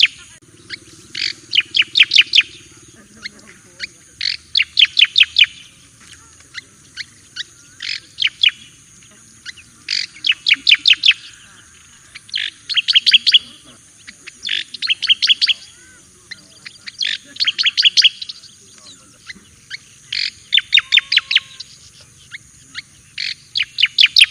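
Striated grassbird (cica koreng jawa) singing: a loud phrase of five to eight sharp, quick notes, repeated about every two seconds.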